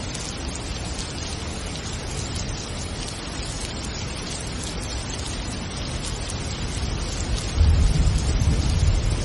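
Steady rain falling, an even hiss, with a low rumble of thunder building near the end.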